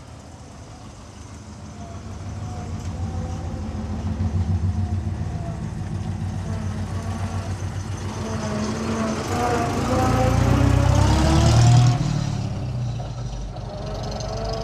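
A car engine running, growing louder and rising in pitch as it accelerates. It is loudest just before the end, then eases off.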